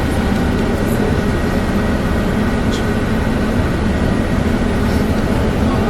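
Steady low rumble of a moving vehicle heard from inside the cabin, with a constant drone and no distinct events.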